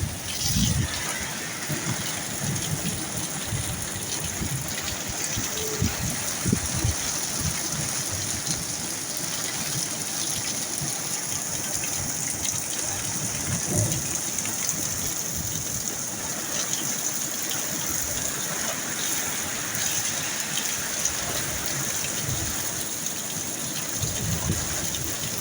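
Heavy rain falling steadily in a storm, an even rushing hiss, with a few short low thumps scattered through it.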